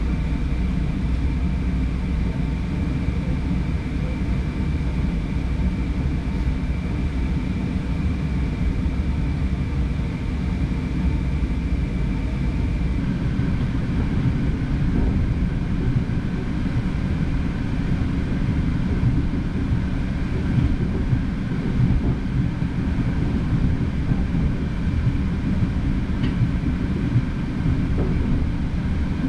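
Steady running noise inside a moving passenger train carriage: a low rumble of wheels on rail, with a faint steady whine whose pitch drops about halfway through.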